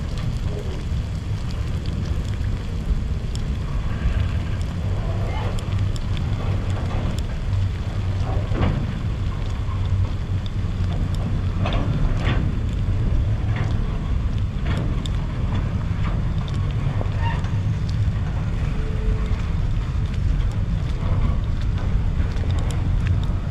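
Norfolk Southern freight train rolling past: a steady low rumble of wheels on rail, with scattered clicks and knocks from the passing cars.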